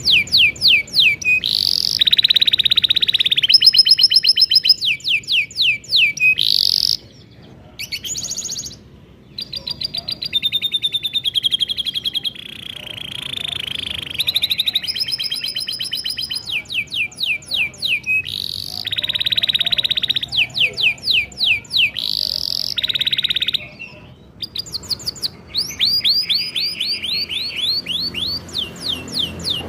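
Domestic canary singing a long song of rapid trills and rolls, phrases of fast repeated high notes one after another. The song breaks off briefly about seven, nine and twenty-four seconds in.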